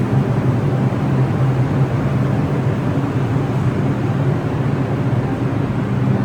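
NYC subway R62A train running along the track: a steady low rumble that does not change.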